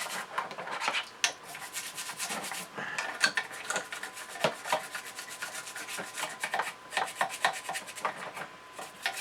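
Rapid, irregular scrubbing strokes rasping over a chassis as grime is scrubbed off its corners.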